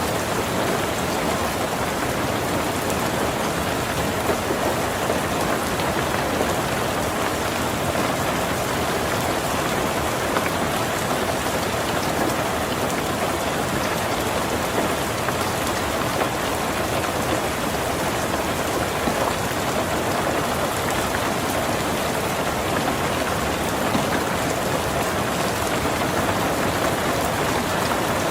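Heavy rain drumming steadily on a tin roof, a dense, even patter with no breaks.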